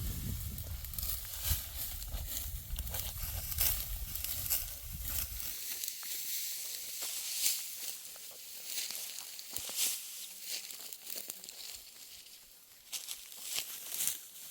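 Dry wheat stalks crackling and rustling in irregular crunchy strokes, as when ripe wheat is cut and gathered by hand. A low rumble underneath stops suddenly about five seconds in.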